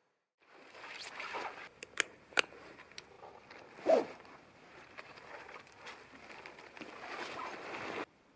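Rustling and handling noise with several sharp clicks or snaps, and a short falling creak about four seconds in; the sound starts and stops abruptly.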